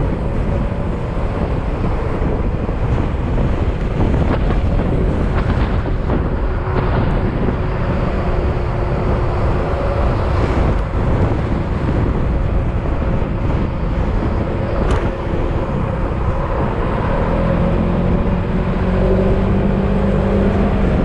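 Yamaha XMAX scooter's single-cylinder engine running at road speed, with wind noise on the microphone. Its note rises near the end as it accelerates.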